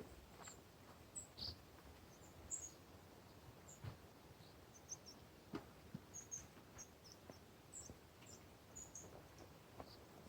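Near silence outdoors, with faint, short, high-pitched bird chirps scattered irregularly and a few soft clicks.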